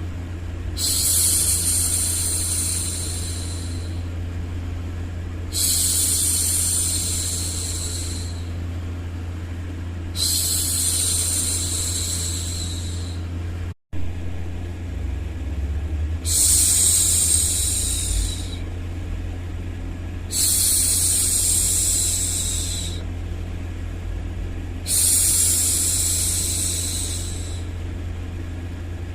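A woman's voice shushing, a long "shhh" repeated six times, each lasting about two and a half seconds with short gaps between, over a steady low rumbling noise. The sound cuts out for an instant about halfway through.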